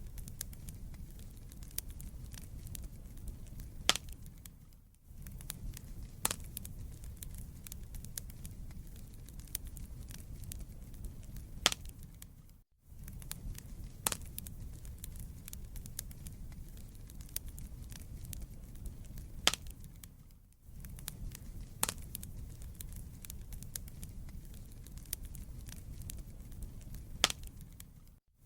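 Wood fire burning in a fireplace: a steady low rumble of flames with frequent sharp crackles from the burning logs and a louder pop every several seconds. The sound dips away briefly about every eight seconds.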